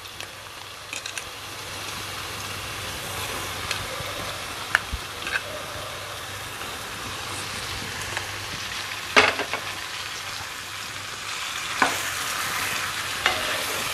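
Prawns, tomato and masala sizzling in a nonstick pan as brinjal pieces are tipped in and stirred with a spatula, a steady frying hiss broken by a few sharp knocks.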